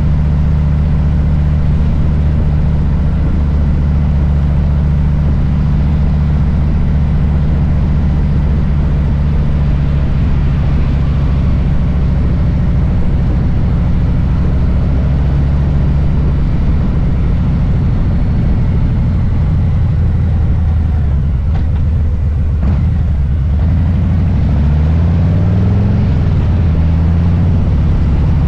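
Harley-Davidson Low Rider S's Milwaukee-Eight V-twin running at low, steady revs, then revving up in rising pulls near the end as the bike accelerates.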